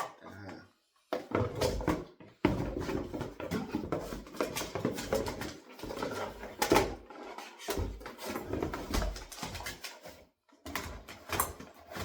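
Gift packaging and a boxed electric kettle being handled: irregular rustling and crinkling with small knocks, broken by two short pauses.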